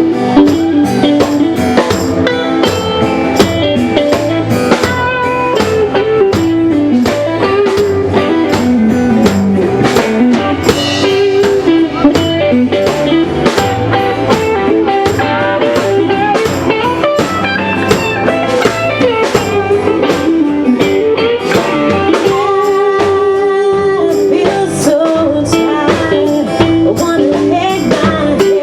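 Live blues band playing: guitar and drum kit with a steady beat, and singing.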